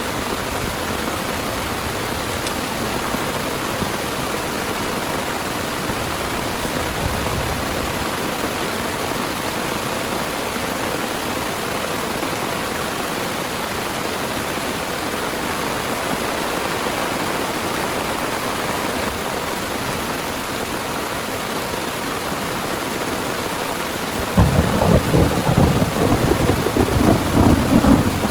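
Heavy rain falling steadily. About 24 seconds in, thunder breaks in with a sudden, loud, crackling rumble that goes on to the end.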